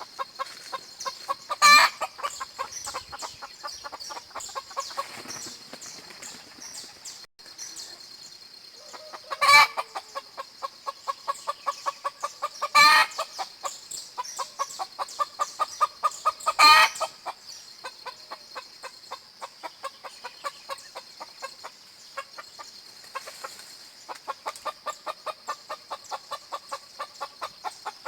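Chickens clucking in a quick, even run of repeated calls, broken by four short, much louder calls spread through. A steady high-pitched buzz runs behind.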